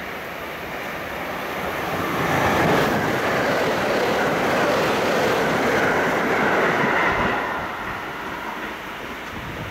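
Thunderbird limited express electric train passing at speed in the rain: a rush of wheels on rail and air builds about two seconds in, holds loud for around five seconds, then fades as the train moves away, over a steady rain hiss.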